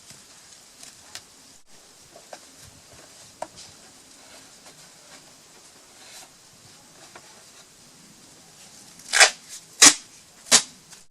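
Duct tape being worked: faint handling rustles and small clicks, then three short, loud rips of tape pulled off the roll near the end.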